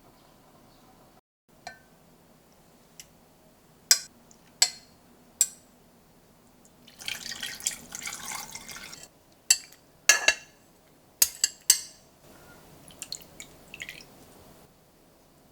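Glassware clinking in a series of sharp knocks, with liquid poured for about two seconds in the middle and a softer run of pouring or trickling near the end.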